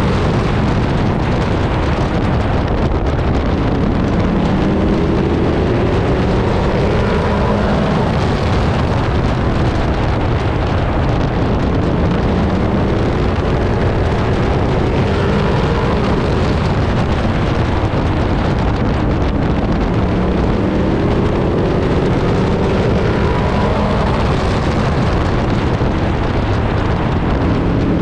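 Pro truck racing engine running hard at race pace, heard from inside the cab. Its note climbs and drops again several times.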